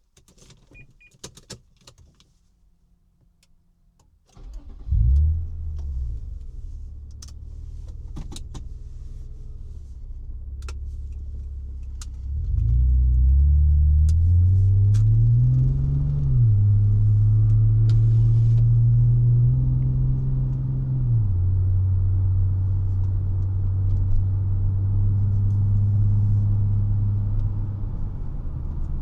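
A few light clicks, then a 1999 Honda Legend's 3.5-litre V6 starts about four seconds in with a brief loud flare and settles to idle. About twelve seconds in the engine speed rises and holds higher for several seconds, then drops to a lower steady running note near twenty-one seconds.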